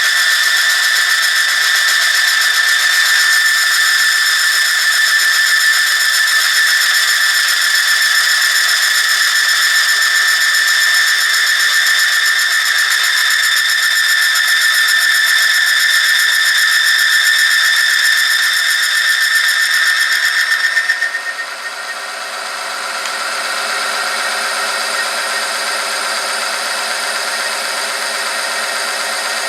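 Oil-film friction test machine running, its motor-driven rotating steel part rubbing against a steel sample in engine oil heated to 100°C, with a steady high-pitched whine. About 21 seconds in the whine cuts out, the sound dips briefly, then settles into a lower, rougher steady tone.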